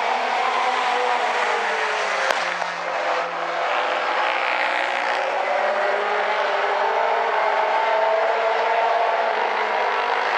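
A field of late model stock cars racing past at full throttle on the final lap. Several engines are heard at once, their pitches rising and falling as the cars go by.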